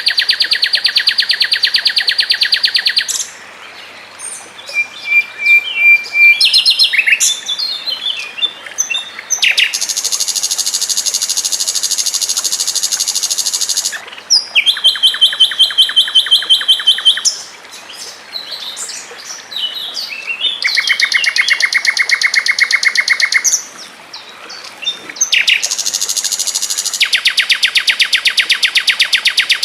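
Songbird song built from very fast, tightly packed trills, each running three to four seconds, with short looser twittering phrases and brief pauses between them.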